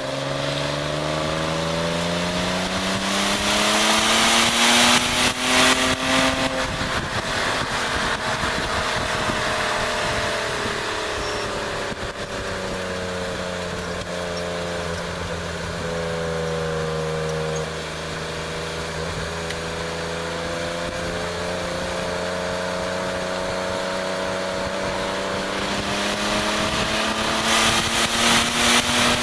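BMW E36 325is's 2.5-litre straight-six engine under hard track driving: its note climbs for about six seconds, settles lower and steadier through the middle, then climbs again near the end. Wind buffets the microphone at the faster moments.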